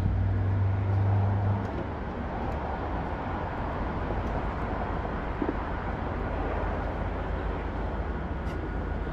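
Steady outdoor rumble and hiss with no speech. A low, even hum sits under it for about the first second and a half, then fades out.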